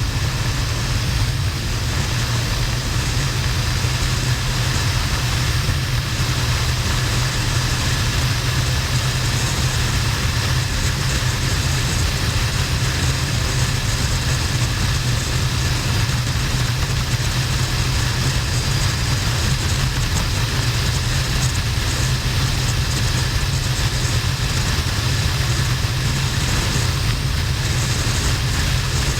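Harley-Davidson XL1200N Nightster's air-cooled V-twin running steadily at motorway cruising speed, under heavy wind rush on the camera microphone.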